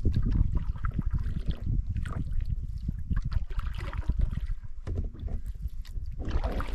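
A canoe being paddled on a river: irregular paddle strokes and water splashing and lapping, over a steady low rumble.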